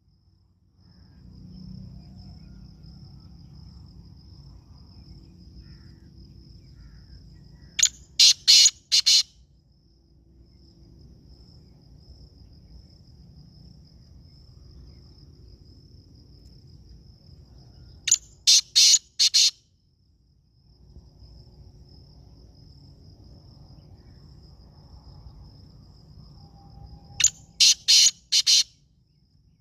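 Black francolin calling: three loud, harsh phrases of four or five rapid notes each, about ten seconds apart. Between the calls, a faint steady high insect trill and low background noise.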